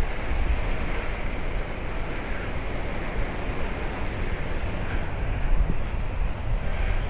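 Wind buffeting the microphone, a constant low rumble over a steady outdoor rush.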